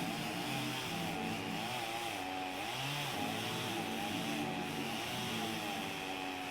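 Gasoline chainsaw running as it cuts into a dead spruce trunk, its engine pitch wavering up and down steadily.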